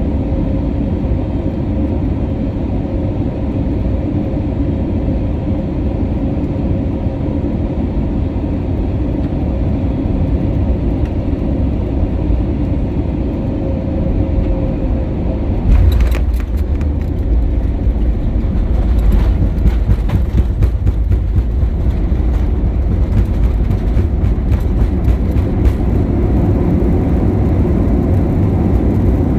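Airbus A320neo cabin noise: a steady hum of engines and airflow, then about halfway through a sudden deeper rumble with rattling as the wheels meet and roll along the runway, typical of touchdown.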